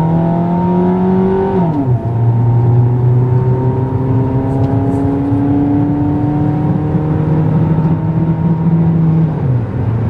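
2003 Suzuki Aerio's engine accelerating hard at full throttle, its pitch climbing steadily. The revs drop sharply twice, about two seconds in and near the end, as the automatic transmission upshifts.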